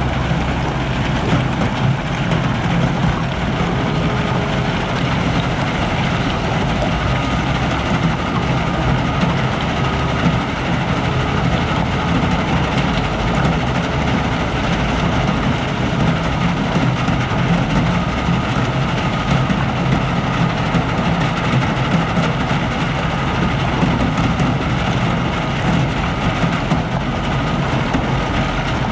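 Cat 972M XE wheel loader's diesel engine running steadily under work, a constant low drone with a broad mechanical noise over it.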